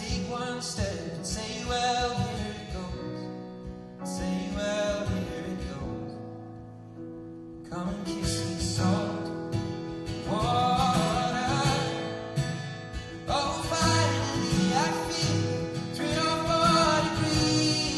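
Live acoustic guitar with a male voice singing over it, the music thinning out briefly about six seconds in before building again.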